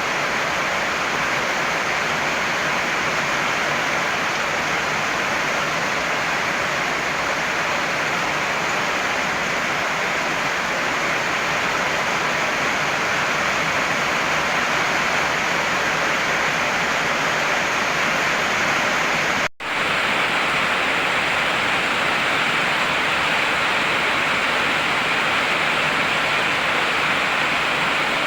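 Heavy rain falling in a steady, dense hiss. It cuts out for an instant about two-thirds of the way through, then carries on unchanged.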